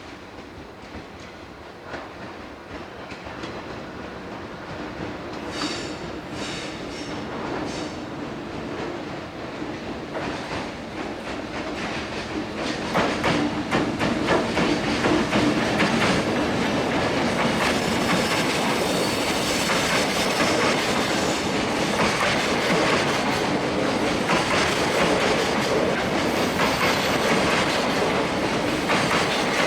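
Freight train hauled by a JR Freight EH500 electric locomotive approaching and running past. The wheels clatter over the rail joints, growing louder for about the first twelve seconds and then holding as a steady clickety-clack while the wagons pass. A faint high wheel squeal comes near the end.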